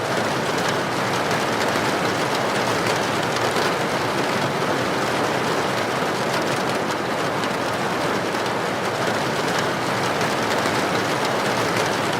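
Heavy rain drumming on a tin roof: a dense, unbroken patter of drops on metal sheeting.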